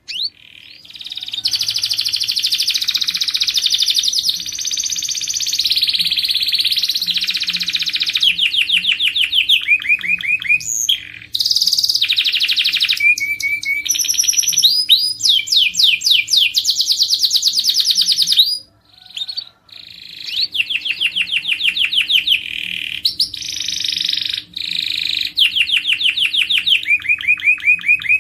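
Domestic canary singing a long song of fast trills and rolling runs of repeated notes, changing from one phrase to the next, with brief breaks about eleven seconds in and again near nineteen seconds.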